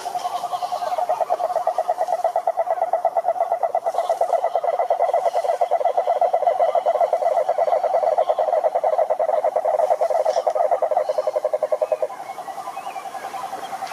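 Frogs at a pond giving long, rapid pulsed trills that overlap. A loud trill stops about twelve seconds in, and a quieter one carries on trilling.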